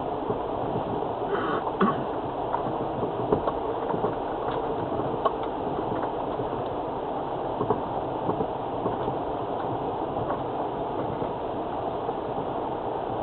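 Land Rover Freelander TD4 diesel running steadily while the vehicle rolls along a wet, rough lane, heard from inside the cabin as a steady rumble with scattered light knocks.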